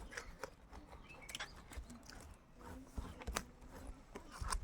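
Close-miked mouth sounds of people eating chicken: irregular wet smacks, clicks and chewing.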